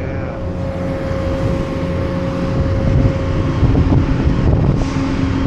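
Engine running steadily, a low rumble with a constant hum, with wind buffeting the microphone.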